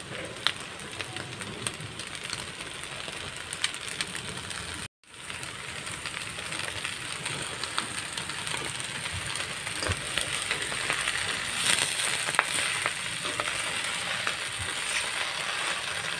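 Beef and bottle gourd leaves frying in a steel wok: a steady sizzle with scattered clicks and scrapes of a metal spatula against the pan. The sound cuts out for an instant about five seconds in, and the sizzle grows a little louder in the second half as the leaves are stirred in.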